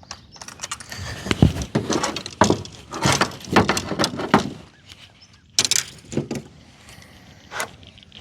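Irregular knocks, clatters and rustling, densest in the first half, with sharp single knocks near the middle and again near the end.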